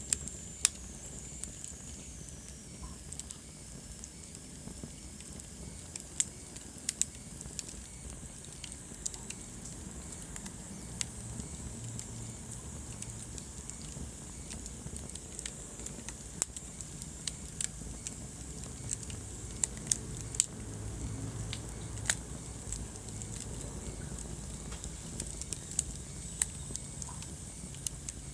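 Wood fire burning in a fireplace, crackling with irregular sharp pops and snaps over a steady low rumble and hiss. A thin high whistle falls in pitch during the first few seconds.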